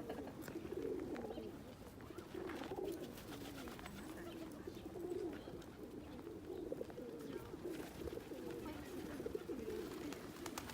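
Pigeons cooing: a low, wavering coo that goes on almost without a break, with a few faint clicks.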